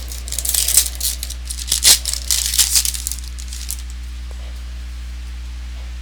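Crinkling and tearing of a trading card pack wrapper being ripped open, a flurry of crisp crackles that stops a little under four seconds in. A steady low hum runs underneath.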